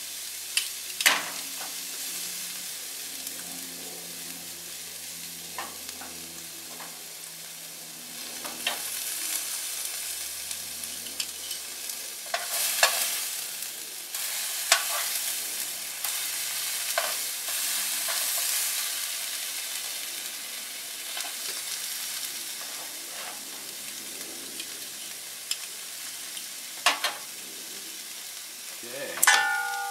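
Salmon fillets and shrimp sizzling in oil in nonstick frying pans, a steady hiss that swells now and then. Metal tongs click and knock against the pans a handful of times as the food is turned and stirred.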